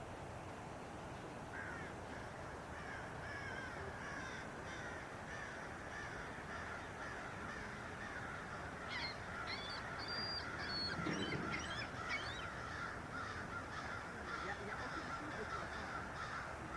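Birds calling over a steady hiss of running water, with a cluster of high, quick chirps about two-thirds of the way through.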